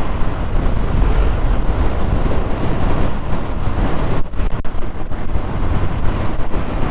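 Loud, rough rush of wind buffeting the camera microphone of a motorcycle on the move, with low rumble underneath. It drops away briefly about four seconds in.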